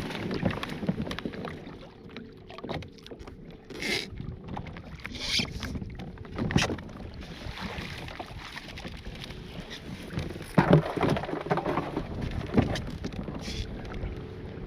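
Sounds of handling on a kayak on the water: scattered knocks and splashes against the hull over a steady background of water and wind on the microphone.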